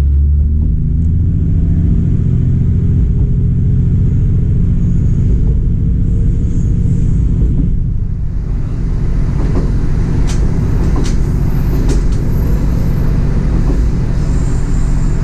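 Koumi Line diesel railcar running, a steady low rumble of engine and wheels on rail; from about ten seconds in, a few sharp clicks as the wheels pass over rail joints.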